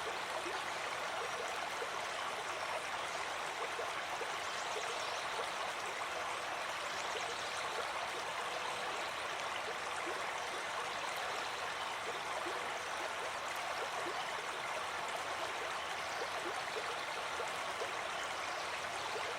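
Small brook babbling: a steady rush of running water with many small gurgles and splashes.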